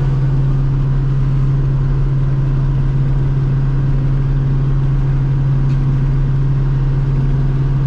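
Heavy farm machine engine running steadily at a constant speed, a loud low drone with no change in pitch.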